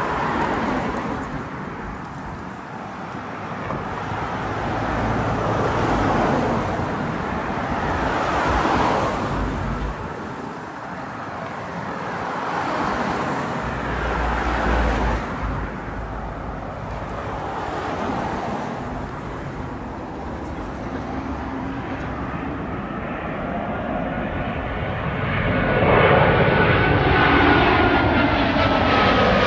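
Jet airliner engines on final approach, a continuous rushing roar that swells and eases. It grows loudest near the end, where a high engine whine glides slowly down in pitch.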